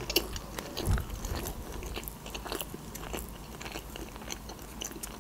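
Close-miked chewing of a mouthful of sushi roll with the mouth closed: a run of moist, sticky clicks and smacks from the rice and fillings.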